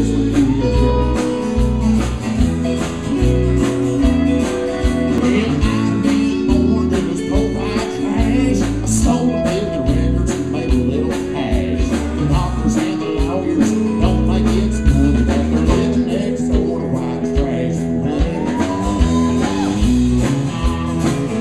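Live country-rock band playing: electric guitars, bass and drums with a steady beat, and a lead singer.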